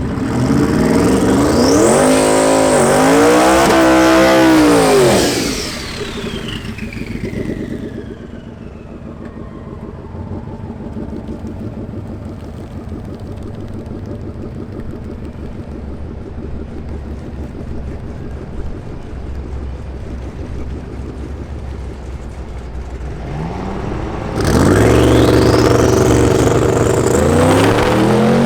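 Twin-turbo drag car accelerating hard, engine pitch climbing and dropping back at each gear change for about five seconds, then fading away with a long falling whine. A lower, steady engine sound follows until a second hard acceleration near the end, the pitch rising again.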